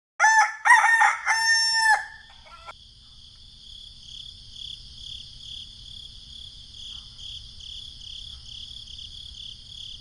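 A rooster crowing once, a cock-a-doodle-doo of several short notes ending in a long held one, over the first two seconds. After it, a steady high insect chirring with a soft pulse continues.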